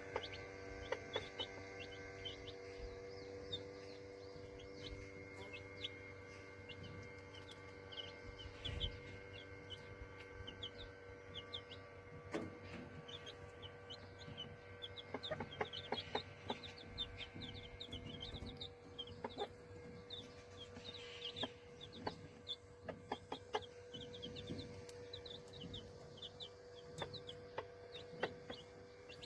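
Young chicks peeping in many short, high chirps throughout, with a mother hen's low clucks now and then. A steady hum runs underneath.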